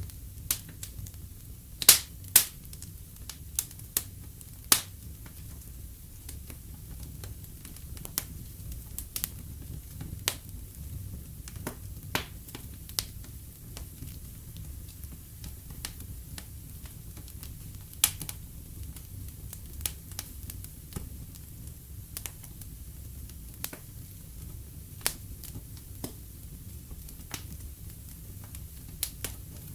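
Wood fire in a fireplace crackling: irregular sharp pops and snaps over a low steady rumble, the loudest pops coming about two seconds in.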